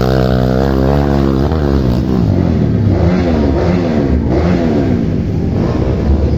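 Vehicle engine revving hard under load while straining up a steep incline. It holds a high, steady note at first, then swings up and down in pitch several times as the revs rise and fall.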